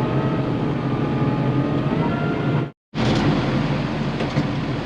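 Tractor engine running steadily under way on the road, its pitch creeping up slightly. The sound cuts out completely for a moment just before three seconds in, then the drone carries on.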